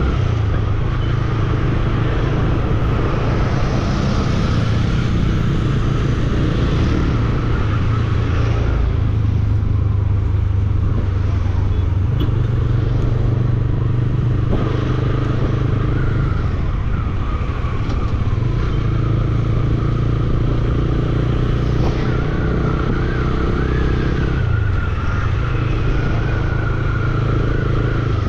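Bajaj Dominar 400 motorcycle engine running under way, its note shifting up and down in steps with throttle and gear changes.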